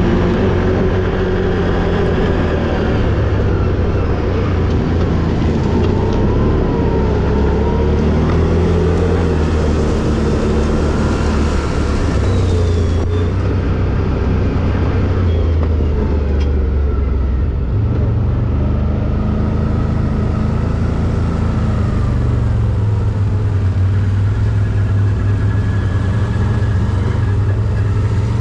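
ATV engine running under way, its revs rising and falling, with a step up in engine pitch a little past the midpoint.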